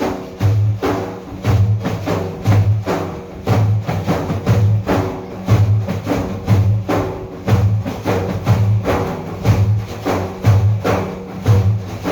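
Frame drums playing an instrumental passage of praise-song accompaniment: a steady, even rhythm of deep booming strokes with sharper slaps between them.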